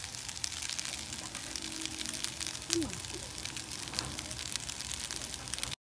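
Fried rice sizzling in a wok, a steady crackle of many small pops from the hot pan. The sound cuts off abruptly near the end.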